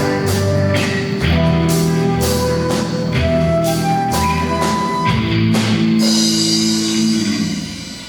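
Live band with electric guitar, keyboard and drum kit playing the closing bars of an instrumental piece. It ends on a held chord with a cymbal crash about six seconds in, which rings and fades away near the end.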